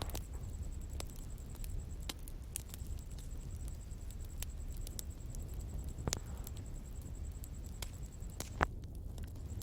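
Bonfire crackling: scattered sharp snaps and pops over a low steady rumble, with one louder pop near the end.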